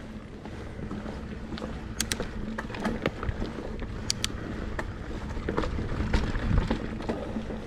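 Mountain bike riding on a dirt trail: a steady rumble of tyres and wind on the microphone, with scattered sharp clicks and rattles from the bike.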